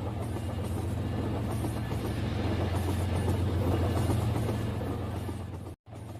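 Battery-powered Rail King toy train running on its plastic track: a steady low motor hum with wheel rattle, a little louder in the middle, cutting out for an instant near the end.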